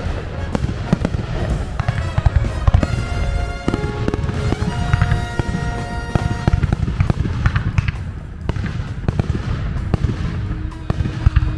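Aerial fireworks going off in quick succession, a dense string of sharp bangs and crackles, with music playing underneath.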